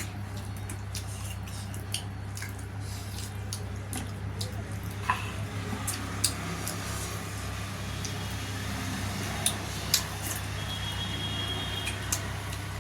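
Eating sounds: wet chewing and lip smacking on dhido and chicken curry, with scattered short clicks, over a steady low hum.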